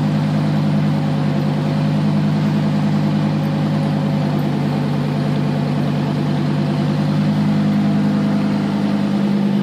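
Lamborghini Huracán Performante's naturally aspirated V10 idling steadily and loudly.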